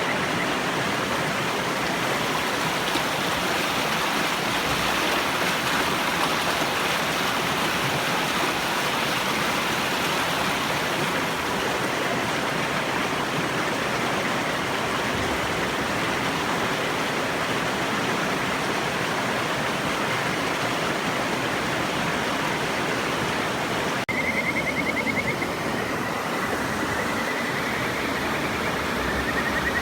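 Stream water rushing steadily, with a kajika frog (Buergeria buergeri) giving a high, rapidly pulsed trilling call twice near the end.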